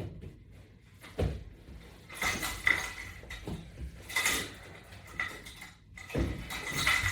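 Resistance-band strap assembly and latch bar hardware clinking and knocking as the tangled gear is worked loose, with a dull thump about a second in and scattered clattery rattles after.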